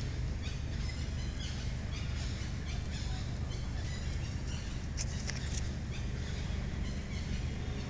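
Forest ambience: scattered short, high bird chirps over a steady low rumble.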